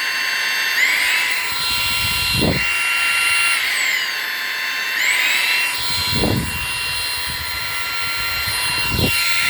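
Eufy HomeVac S11 cordless stick vacuum's motor running with a high whine. Its pitch rises about a second in, sinks a few seconds later and climbs again soon after, with a few soft low thuds along the way.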